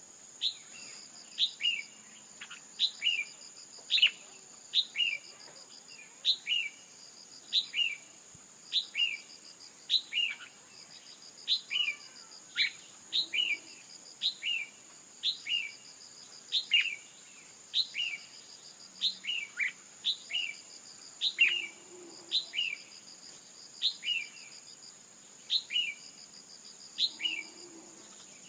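Red-whiskered bulbul (chào mào) female calls, short falling chirps each with a quick second note, repeated more than once a second in an even series, the kind of female call played to stir males into singing. A steady high insect-like whine and faint rapid ticking run underneath.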